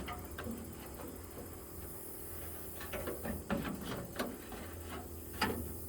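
Light metal clicks and knocks as a metal toolbox drawer and its slides are handled and fitted, a cluster of sharp clicks about halfway through.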